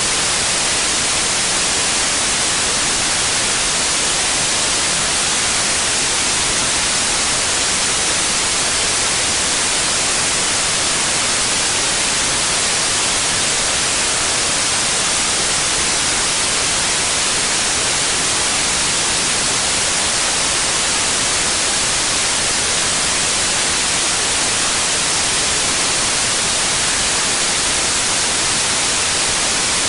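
Steady, loud white noise: an even, unchanging hiss, brightest in the high range.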